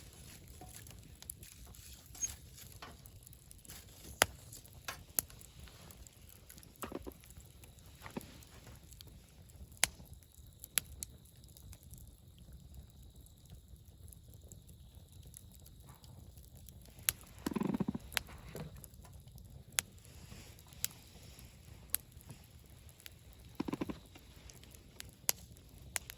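Wood campfire crackling: sharp pops and snaps at irregular intervals over a low, steady rushing of the flames, with a few duller, longer crackles about seven seconds in, around seventeen seconds and near the end.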